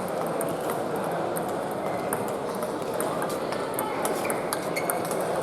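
Table tennis balls clicking off bats and tables: many short, irregular ticks overlapping, as from several rallies at once. Under them runs a steady murmur of a busy hall.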